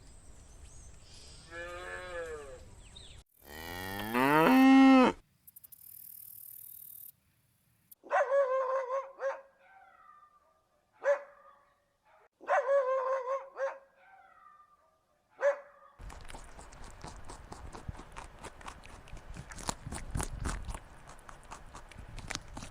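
A series of separate animal calls: drawn-out pitched calls, the loudest a long falling call about four seconds in, then pairs of shorter calls with quick chirps between them. In the last third, a rustling stretch with scattered clicks.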